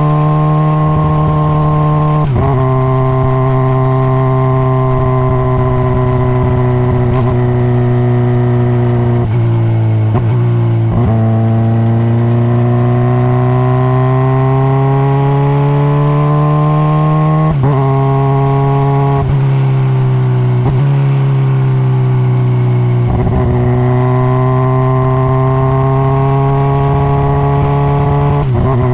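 A 2021 Honda CBR600RR's inline-four engine through its stock exhaust, heard from on board while riding. The engine note shifts suddenly several times, as at gear changes, and climbs slowly in between.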